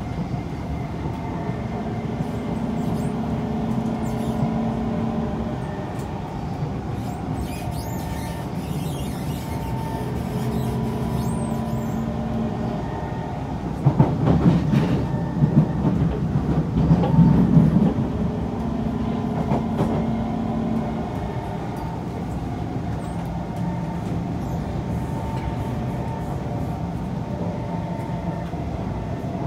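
Kawasaki C151 electric train running between stations, heard from on board: steady traction motor tones over the rumble of wheels on track. The rumble grows louder and rougher for a few seconds about halfway through.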